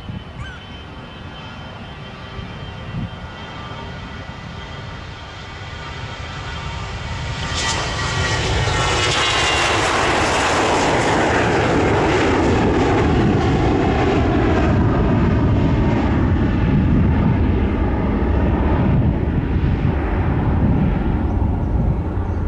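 Airliner's engines passing close by: a whining tone grows louder, then drops in pitch as the aircraft goes past about eight seconds in. Loud, steady engine noise follows.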